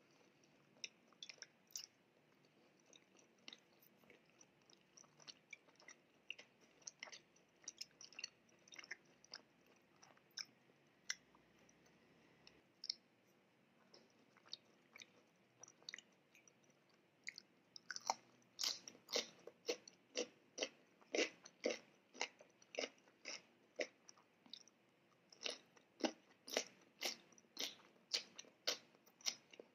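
Close-miked chewing of food. Soft, scattered mouth clicks at first, then from about two-thirds in a run of crisp, crunchy chews at about two a second, broken by a short pause and then resuming.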